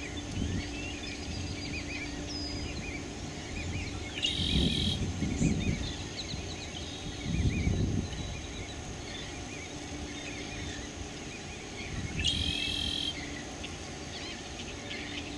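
A chorus of small birds chirping over and over, with a steady high insect drone behind it. A louder, harsh call comes twice, about four and a half seconds in and again around twelve seconds. Low rumbles come near five and eight seconds.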